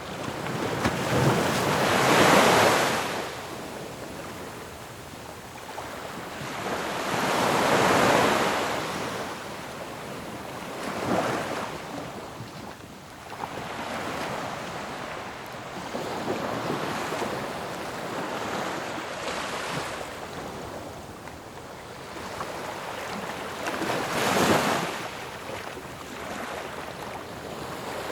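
Ocean waves breaking on a shore: a steady wash of surf that swells into louder crashes about two, eight, eleven and twenty-four seconds in, then falls back.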